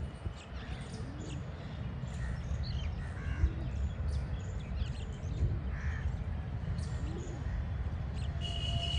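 Crows cawing repeatedly among other birds' shorter chirps, with many calls overlapping, over a steady low rumble.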